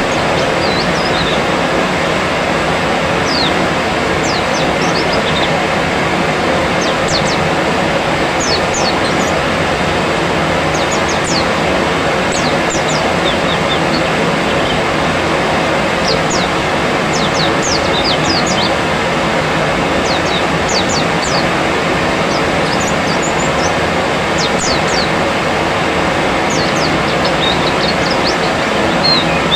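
White-eyes (pleci) chirping: many short, quick, high notes sweeping downward, scattered irregularly over a loud, steady rushing noise.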